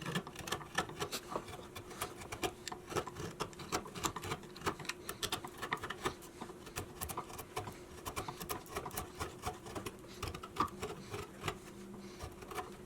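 A hand tool cutting away wood from a banjo neck: a fast, irregular run of clicks and scrapes, over a faint steady hum.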